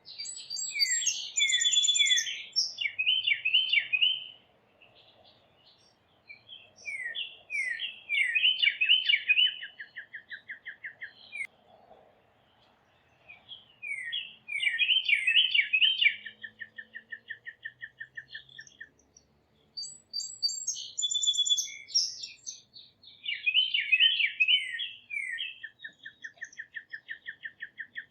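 A songbird singing the same song over and over, one every few seconds. Each song is a burst of quick down-slurred whistled notes ending in an evenly spaced, lower trill.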